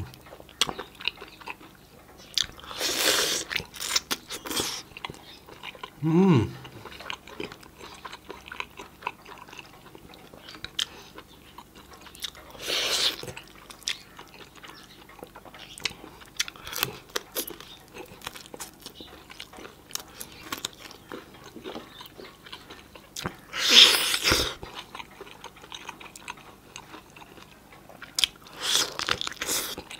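Close-miked eating of roast chicken by hand: chewing and crunching on meat and bone, with many small sharp crunches and clicks. A few louder breathy bursts come about 3, 13, 24 and 29 seconds in.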